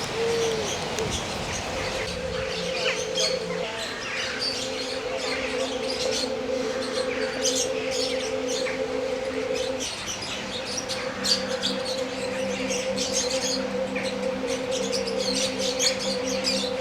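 Many small birds chirping and twittering in quick, irregular calls. Underneath are steady held low tones that shift pitch a few times.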